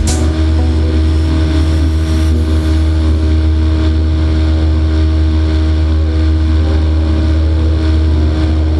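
Honda 600cc engine of an ultralight trike running at a steady speed, a loud, even drone with no change in pitch.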